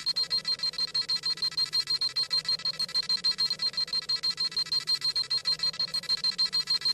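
Dragon Ball Z scouter sound effect: rapid, even electronic beeping, about six high beeps a second over a faint low hum, the scouter reading a power level.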